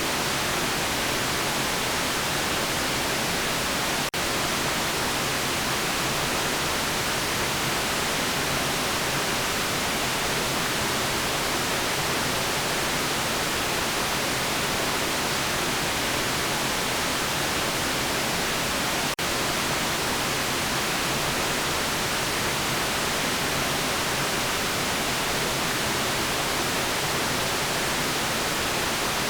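Steady white noise: an even, unchanging hiss spread across all pitches, with two momentary dips in level, about four seconds in and again about nineteen seconds in.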